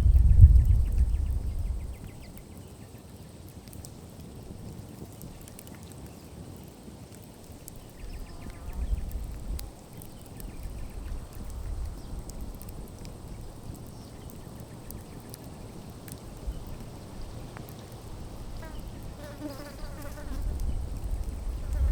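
Wood fire crackling faintly with scattered small pops, while a fly buzzes nearby, most plainly near the end. A low rumble in the first two seconds is the loudest part.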